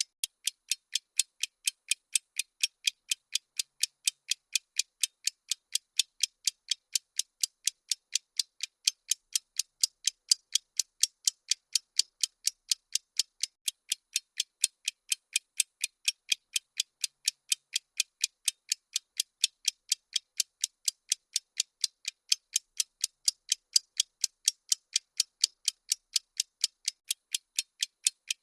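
Bomb countdown timer ticking sound effect: thin, high clock-like ticks at an even pace of about three a second.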